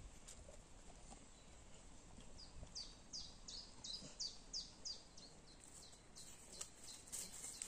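A songbird singing a run of about a dozen high, quick down-slurred notes, roughly three a second, over faint forest quiet. Near the end, rustling and crackling in dry leaf litter.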